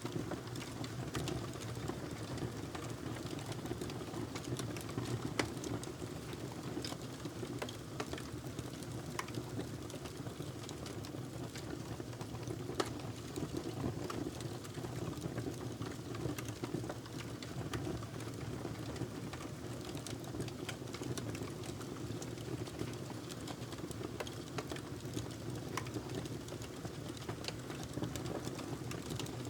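Wood fire burning in a fireplace: a steady low rumble of flames with irregular crackles and a couple of louder pops.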